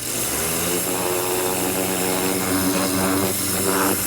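Ryobi 1600 PSI electric pressure washer running at full pressure: a steady buzzing motor hum under the loud hiss of its water jet.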